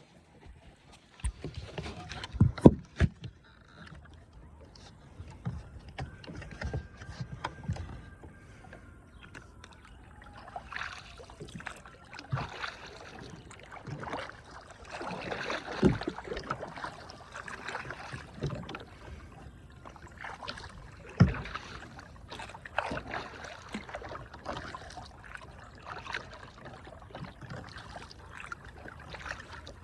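Kayak paddling: the paddle blades swish and splash through the water in repeated strokes every second or two. There are a few loud sharp knocks about two to three seconds in.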